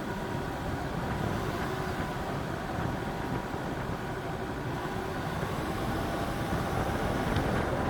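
Jeep Grand Cherokee WJ's 2.7 CRD five-cylinder diesel engine running steadily, getting a little louder near the end.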